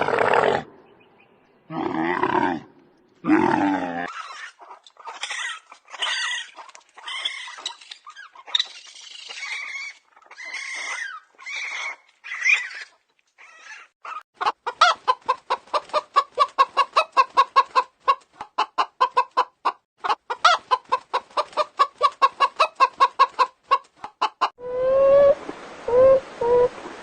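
Chickens clucking: first a string of short, separate calls, then a fast, even run of clucks at about five a second. Two lower calls come just before the clucking starts, and different, lower calls begin near the end.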